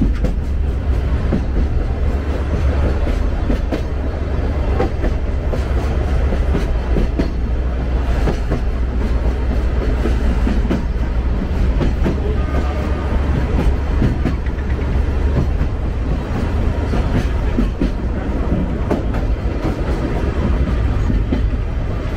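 Sagano Romantic Train carriage running along the line: a steady heavy rumble, with the wheels clicking over rail joints at irregular intervals.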